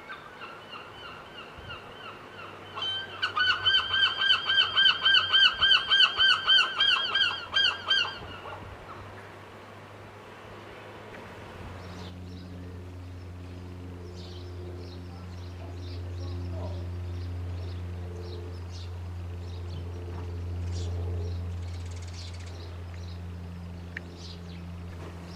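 A seagull calling: a few softer calls, then a loud, fast run of harsh repeated calls, about five a second, that stops about eight seconds in. Later a steady low hum with faint ticking.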